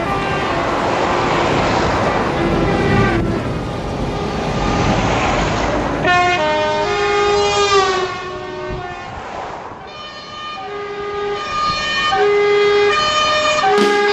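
Truck horns sounding over engine noise. From about six seconds in, a horn plays a sequence of held notes that step up and down like a tune, the kind of musical air horn fitted to show trucks.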